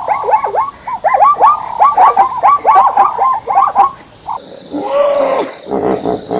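Animal calls: a fast run of short, high calls, several a second, then after a cut a different animal's lower calls in quick pulses.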